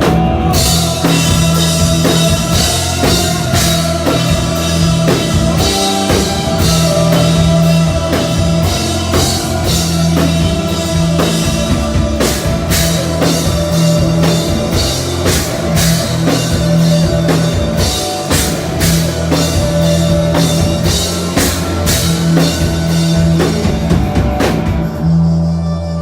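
Live rock band playing an instrumental passage: a full drum kit with dense cymbal and drum hits over steady sustained guitar and bass tones. Near the end the drums stop, leaving a sustained drone.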